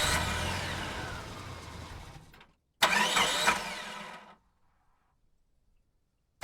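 Engine-like revving sound in bursts, each starting sharply and fading out over about a second and a half: one dying away at the start and a second about three seconds in.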